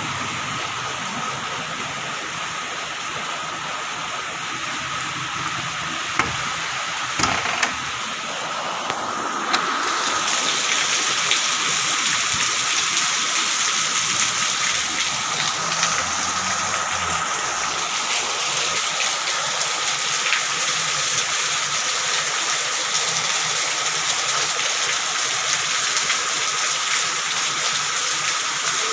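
Heavy rain falling steadily, louder from about ten seconds in, with a few sharp knocks just before.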